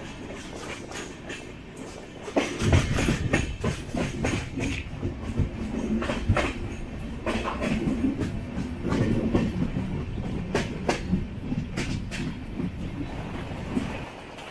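Train wheels clattering over rail joints, with irregular clacks and knocks over a rumble. The clatter grows louder about two and a half seconds in and falls away just before the end.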